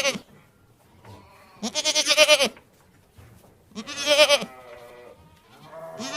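Goat bleating: two long, quavering bleats about two seconds apart, and a third beginning near the end.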